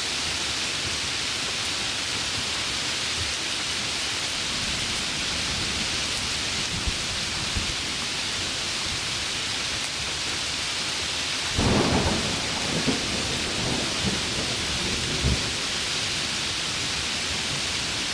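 Heavy rain falling steadily, with a thunderclap about two-thirds of the way in that rumbles on for a few seconds.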